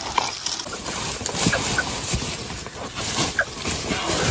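Nestlings giving a few short, scattered peeps, over rustling and light knocks as their nest is handled and fitted into a container.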